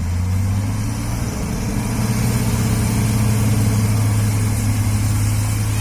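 Heavy truck engine running steadily with a deep, even hum, growing a little louder about two seconds in.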